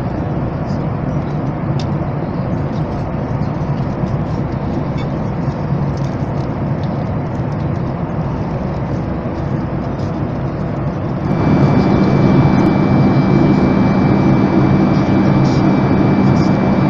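Steady jet cabin noise inside a Boeing 737 MAX 8; about eleven seconds in, the CFM LEAP-1B engines spool up suddenly and stay louder, with a high steady whine over the rumble.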